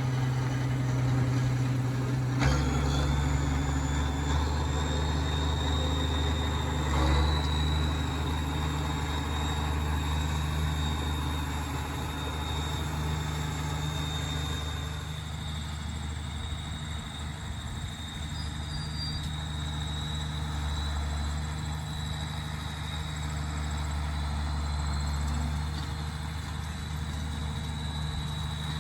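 Tractor diesel engine running steadily under a constant high whine, its note shifting slightly about two and a half seconds in.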